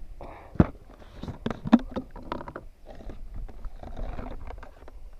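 A series of knocks and clatters on a fishing kayak, with two sharp loud knocks about a second apart and many lighter clicks after them.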